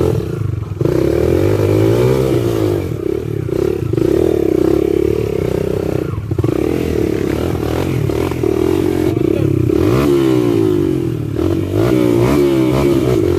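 Dirt bike engine revving up and down over and over under changing throttle, with a few brief drops in pitch and level, along with some clattering.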